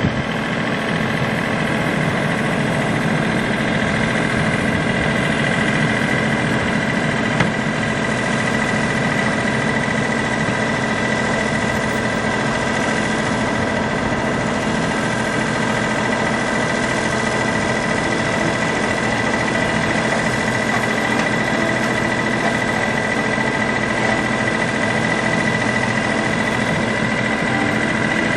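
Steady motor hum with a constant high-pitched tone, unchanging throughout, as from an idling engine.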